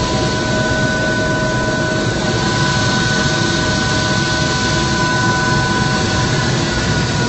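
Helicopter turbine engine and rotors running steadily: a constant loud rush with a high, even whine of several tones over it.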